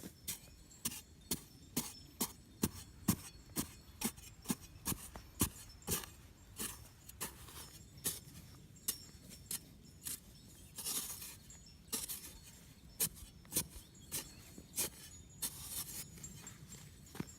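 A long run of sharp taps or clicks, irregular and about two a second, with two short hissing noises partway through.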